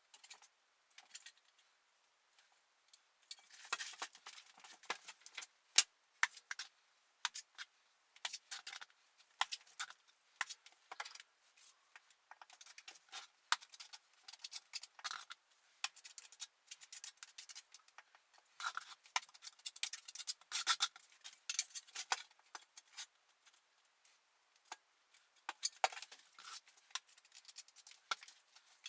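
Irregular clicks, taps and short scrapes of hand tools and metal against mortar and the wall, typical of setting plaster beacons: bedding metal beacon profiles in mortar and tapping them into line.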